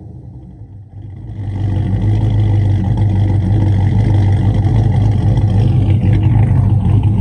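Cammed 5.3-litre V8 Chevrolet Silverado running through a full 3-inch dual exhaust with Black Widow mufflers. The engine picks up about a second and a half in, and the exhaust then runs loud and steady.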